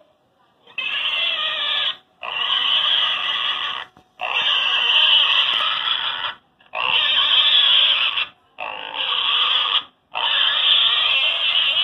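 Pigs grunting and oinking in six long bouts, each lasting one to two seconds, with short breaks between them.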